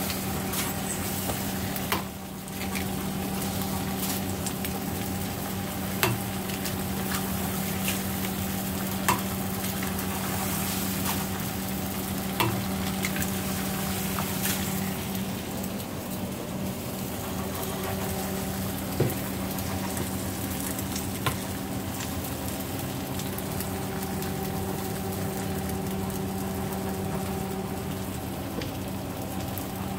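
Eggs and chopped bacon frying on a flat-top griddle: a steady sizzle over a steady low hum, with a few sharp taps now and then.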